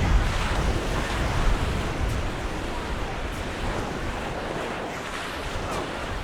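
Mediterranean surf washing onto a sandy beach, with wind rumbling on the microphone. It is a little louder in the first couple of seconds, then eases.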